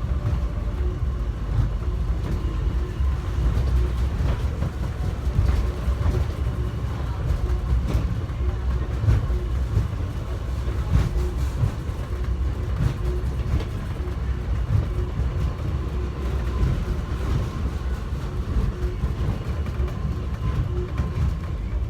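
Airport inter-terminal subway train car running between stations, heard from inside the car: a steady low rumble with a faint steady whine and occasional light clicks. It is moving somewhat slowly.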